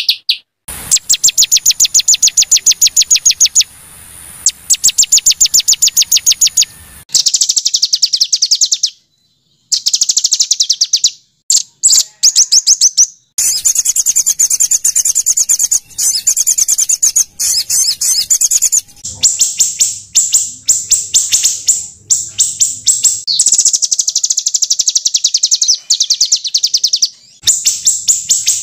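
Small songbirds' harsh, high-pitched bursts of very rapid repeated notes, a looped birdsong tutoring track for white-rumped shamas. The bursts last a second or a few each and stop and start abruptly, with sudden silent gaps from the edits.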